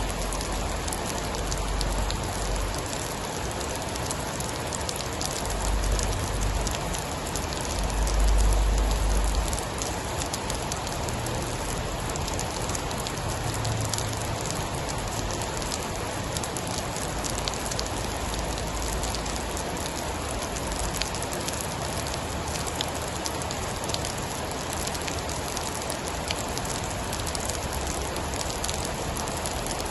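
Steady heavy rain with a fine patter of drops. Low rumbles swell a few times in the first ten seconds, the loudest about eight to nine seconds in.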